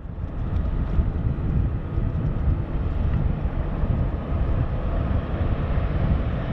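Hovercraft running on its trial run, a steady drone of its engines and propellers heard across the water, with wind buffeting the microphone.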